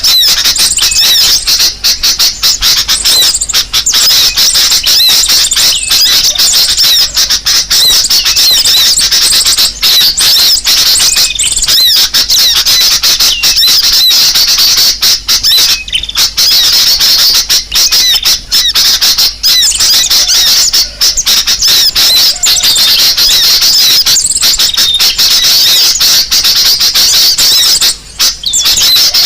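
Bird-lure recording of sunbird (kolibri sogo ontong) calls mixed with sooty-headed bulbul (kutilang) song: loud, dense, unbroken high-pitched chirping and twittering, made to draw small birds in.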